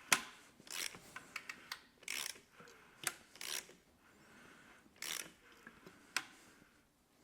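A V-type engine being turned over slowly by hand with a wrench: short scraping strokes and a few sharp snaps at uneven intervals. The snapping comes from the hydraulic valve lifters and VANOS cam adjusters as the crank turns.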